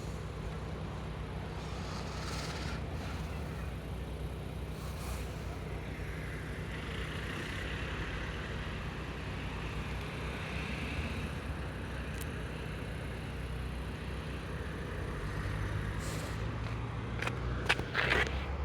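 Steady low engine hum of an idling road vehicle, with a swell of traffic noise partway through and a few sharp clicks near the end.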